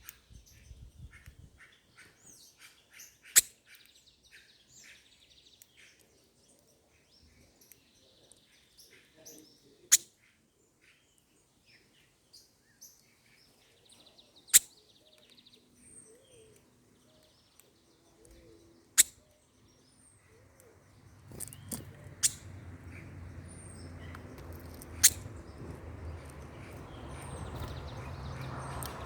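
Small birds chirping in quick, short calls, with a loud sharp click every four to five seconds. About two-thirds of the way through, a rushing noise with a low rumble starts and keeps growing louder.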